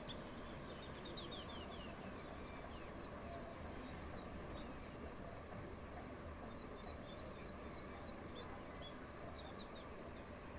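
Scaly-breasted munias giving many faint, short, high, thin chirps, over a steady high-pitched hiss.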